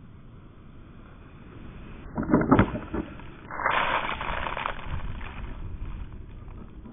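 Plow car pushing snow: a few loud knocks a little over two seconds in as the blade hits, then a rushing scrape of snow that fades over about three seconds.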